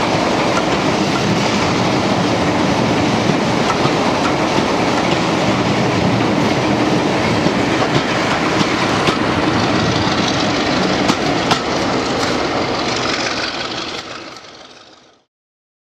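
First-generation diesel multiple unit running past close by, its wheels clicking over the rail joints, fading away near the end before the sound cuts off.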